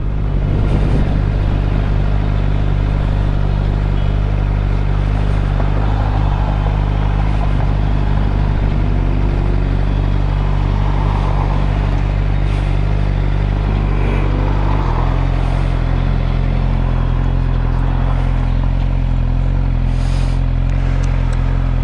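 2013 Suzuki GSX-R600's inline-four engine running steadily, recorded from the bike. About fifteen seconds in, it settles to a slightly different steady note.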